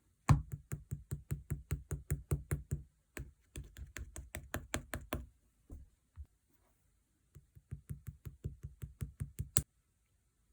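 Orange clear slime being pressed and squeezed by hand, giving a quick, even run of crisp clicking pops, about five a second. The clicks come in three bursts, with a pause before the last, which ends on one louder pop.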